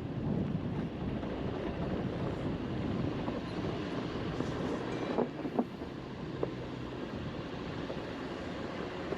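Wind buffeting a camera microphone, a steady rushing noise with a few sharp knocks about five to six seconds in.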